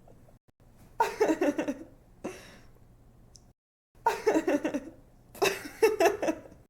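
Young woman laughing in three bursts of quick, bright "ha-ha-ha" pulses, each about a second long, with short pauses between them and a brief softer breath of laughter after the first.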